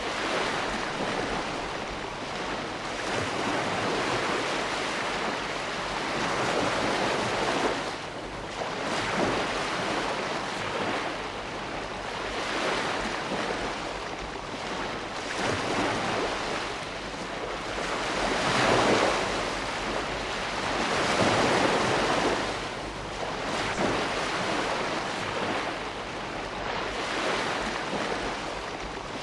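Ocean waves washing onto a shore in a continuous hiss, swelling and falling every few seconds, with the biggest surge a little past halfway.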